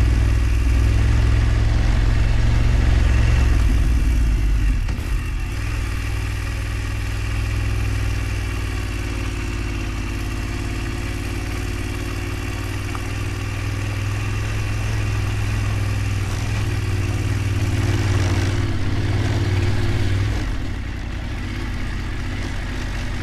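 A vehicle engine running with a steady low drone. It drops in level about five seconds in and again near the end.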